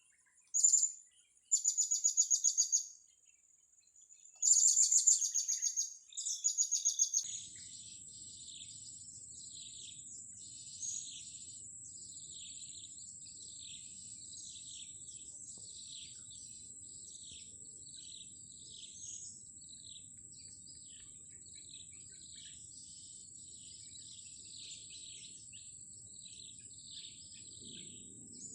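Four bursts of rapid, loud, high trills in the first seven seconds. Then a steady high-pitched whine with many short bird chirps and a faint low rumble underneath.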